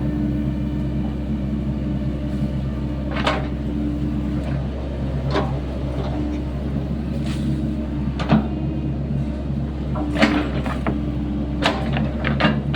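Sany SY75C mini excavator's diesel engine running steadily while digging a trench, with sharp clanks every second or two.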